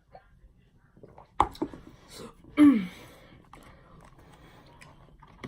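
A few sharp mouth clicks and smacks, then about two and a half seconds in a short, loud vocal sound from the woman that falls in pitch, made between mouthfuls while eating.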